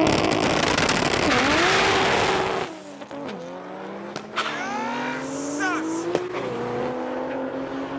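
Turbocharged Nissan 350Z V6 engines at full throttle launching down a drag strip. A loud rush of engine and tyre noise dips and climbs again at a gear change, then falls away suddenly about two and a half seconds in. After that an engine note keeps climbing slowly in pitch as the cars pull away.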